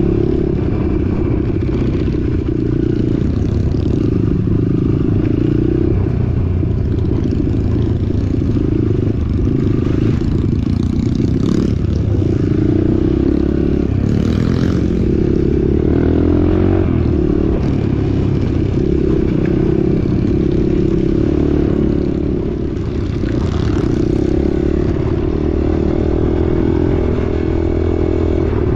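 Trail motorcycle engine running steadily as the bike is ridden, with a few brief knocks and a short drop in level a little over three-quarters of the way through.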